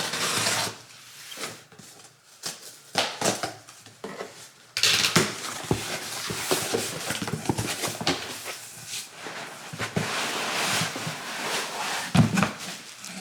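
Unpacking a cardboard box of clothing: scattered handling clicks and rustles, then about five seconds in a long stretch of crinkling plastic bag packaging, with a thump near the end.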